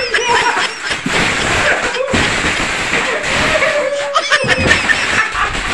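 Laughter and voices over the jingle of a pile of loose coins being pushed and shuffled on a wooden surface.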